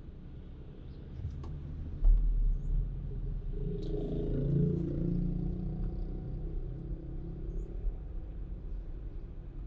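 Car running in traffic, heard from inside the cabin: a low rumble that swells sharply about two seconds in, followed by an engine drone for several seconds.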